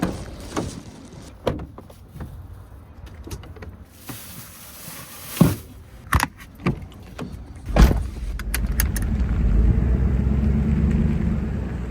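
A vehicle's door and keys clicking and knocking, then about eight seconds in the truck's engine starts and runs steadily.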